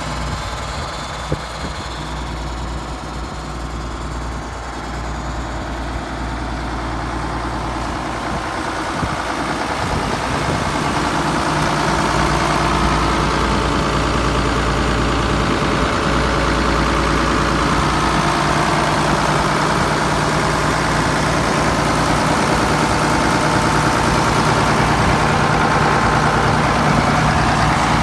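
1974 Case 970 tractor engine running steadily, growing louder about ten seconds in and holding there, with a single sharp click about a second in.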